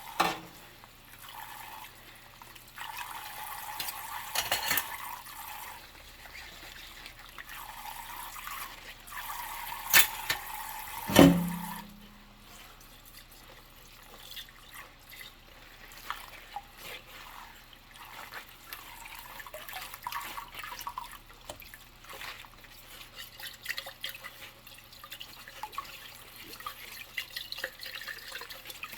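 Dishes washed by hand at a sink with rubber gloves on: tap water runs in spells, with small clinks and rubbing throughout. Two loud knocks come about ten and eleven seconds in, and the second rings briefly, like a dish or pot knocked against the sink.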